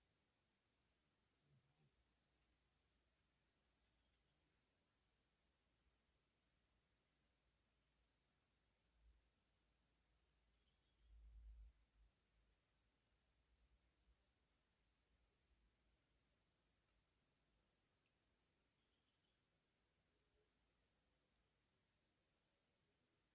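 Steady, high-pitched chorus of insects, a continuous shrill trill that does not let up.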